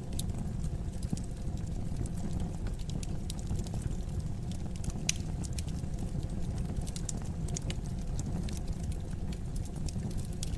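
Fireplace wood fire crackling: irregular sharp pops and ticks over a steady low rumble, with one louder pop about five seconds in.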